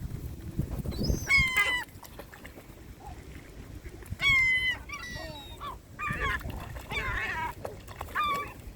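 Gulls calling in several bouts of short, repeated, strident cries, over a low rumble.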